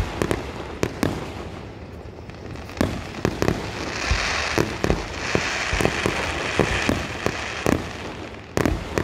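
Fireworks display: aerial shells going off in quick succession with sharp bangs, a few seconds of hissing crackle in the middle, and a loud bang near the end.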